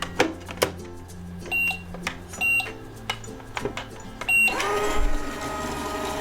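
Toy microwave playset: plastic clicks from the door and handling, three short electronic button beeps, then about four and a half seconds in the toy starts its steady electronic running sound.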